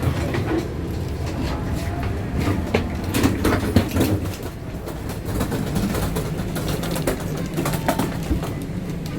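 Passenger train at a station platform during boarding: a steady low rumble with many scattered clicks and knocks.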